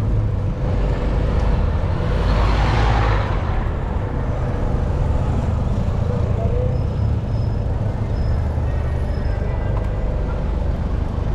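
Road traffic heard from a moving bicycle, with a steady low rumble of wind on the microphone; a vehicle passes about two seconds in, swelling and fading over about a second.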